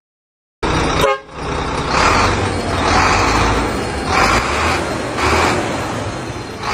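Heavy diesel earthmoving machinery running and working, a steady low rumble that swells about once a second. A brief pitched sound falls in pitch about a second in, possibly a short horn toot.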